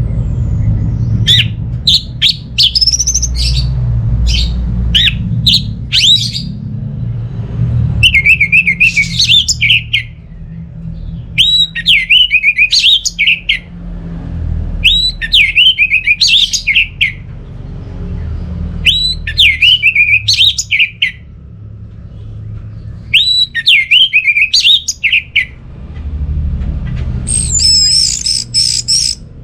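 Orange-headed thrush singing: first a quick run of short, sharp high notes, then whistled phrases of about two seconds repeated every three to four seconds, and a higher phrase near the end. A low rumble runs underneath.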